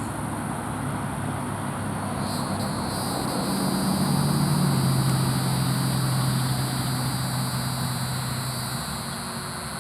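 A distant engine hum swells and fades over several seconds as it passes, its low tone dropping slightly in pitch around the loudest point.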